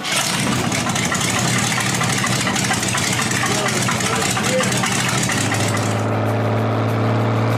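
Engine running loud with a harsh, hissing exhaust and a fast, even firing rhythm; the hiss eases about six seconds in, leaving a steadier low hum.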